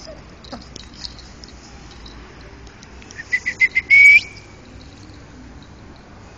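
Puppy whimpering: a quick run of five short, high squeaks followed by one longer, slightly rising whine, midway through.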